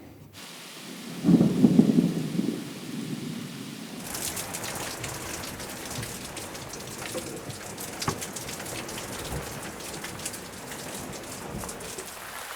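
Steady rain, with many individual drops ticking close by, begins suddenly about four seconds in. Before it there is a loud, low rumble lasting about a second.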